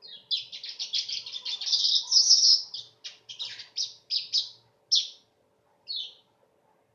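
Weaver bird (manyar) singing: a rapid, dense chattering run of high notes, then a few separate short notes, with a last one about six seconds in.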